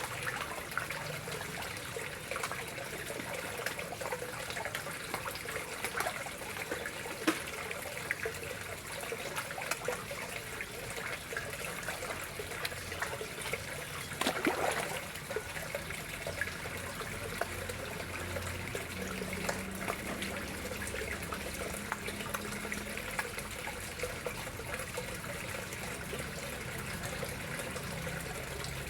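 Water flowing and trickling steadily into a koi pond, with a briefly louder splash about halfway through.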